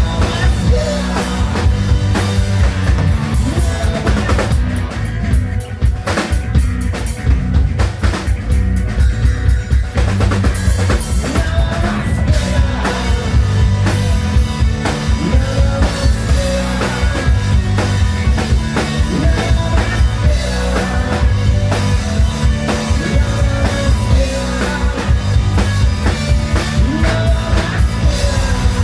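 Live hard rock band playing loudly, with the drum kit to the fore: bass drum, snare and rimshots over dense bass. The high end thins out for a few seconds early on, then the full band comes back in.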